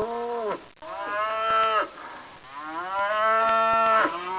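Cow mooing repeatedly in drawn-out calls: one ends about half a second in, a second lasts about a second, a third longer one lasts about a second and a half, and a fourth begins near the end.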